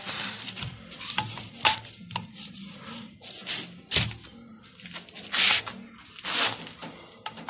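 TV-16 lathe cross slide being set onto its freshly oiled dovetail ways and slid along them: metal knocks and clinks with several short sliding scrapes.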